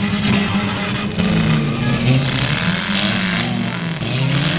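Engines of several demolition derby cars running and revving, their pitch rising and falling as the cars push and manoeuvre.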